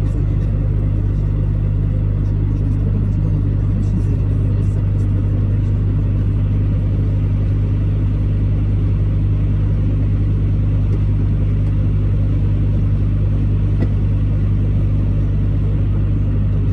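Truck engine and road noise while driving: a steady low drone that holds an even level throughout.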